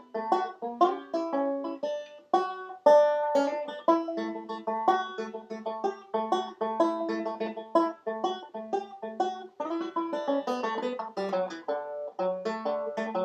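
Banjo music: fast plucked notes in a quick, steady run.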